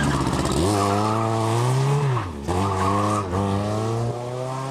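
Rally car engine accelerating hard, the revs climbing and dropping twice at gear changes.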